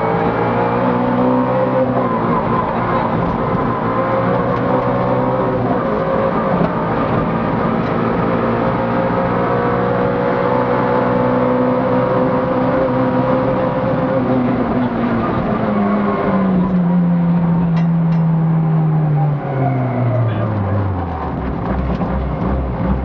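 Rally car engine heard from inside the cabin, held at steady high revs, then winding down in a long steady fall in pitch about two-thirds of the way through as the car slows, settling to a low, lumpy idle near the end.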